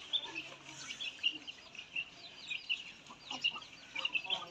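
Many birds chirping at once: a dense, continuous overlap of short, high-pitched calls, many of them falling slightly in pitch.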